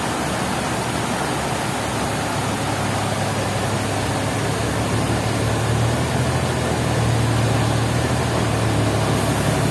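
Sawmill machinery running steadily: a low engine hum under a continuous rushing noise, growing a little louder about seven seconds in.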